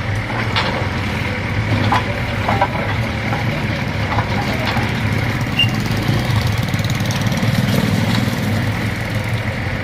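Diesel locomotive engine idling with a steady low hum, a few light ticks over it.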